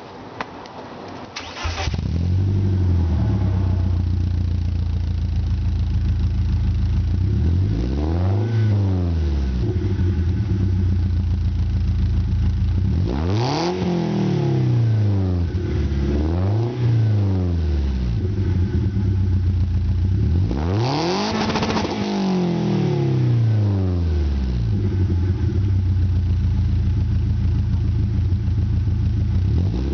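BMW E36 318is four-cylinder engine, breathing through a rear free-flow muffler, catching about two seconds in and settling to an idle. It is then revved four times, each rev falling back to idle: one short, two close together, and a longer one past the middle.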